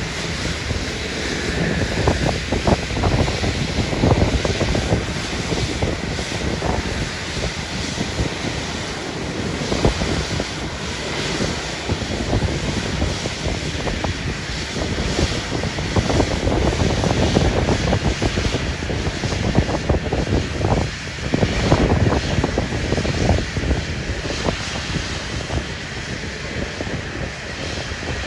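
Airliner engines running with a steady rumble, mixed with wind buffeting the phone's microphone in uneven gusts.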